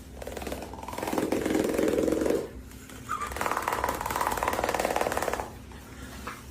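Dog purring: a rapid, rattling purr-like rumble in two long bursts, the second starting about three seconds in.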